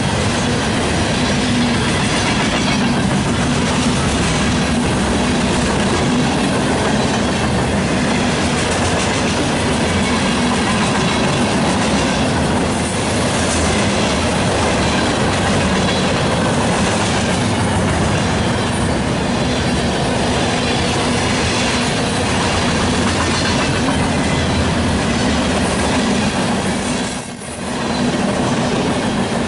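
Freight train passing close by: the steel wheels of tank cars, hoppers and boxcars rolling on the rails in a loud, steady rumble that dips briefly near the end.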